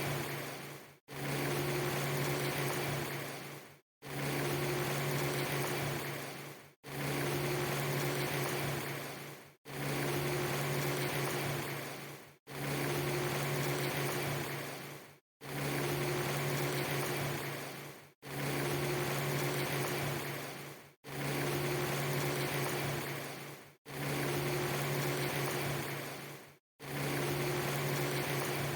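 A short recording of steady hiss with a low hum, looped about every three seconds. Each repeat fades towards its end and then drops out to silence for a split second before starting again.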